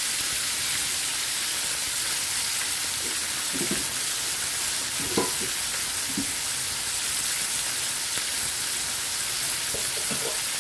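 Fried fish pieces with sliced onion and tomato sizzling steadily in hot oil in a nonstick pan.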